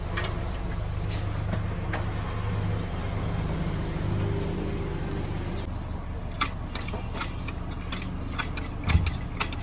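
Toyota GLI car engine idling steadily. From about six seconds in, sharp clicks and taps come over it, with a heavier knock near the end.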